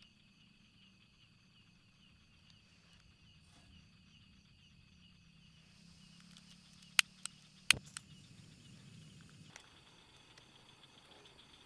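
Insects chirping steadily in an even, repeating pulse, over a faint low hum. About seven seconds in come four sharp clicks in quick succession.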